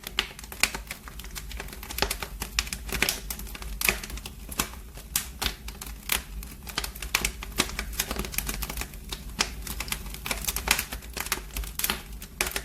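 Wood fire burning in a fireplace, crackling with many irregular sharp snaps and pops over a low steady rumble.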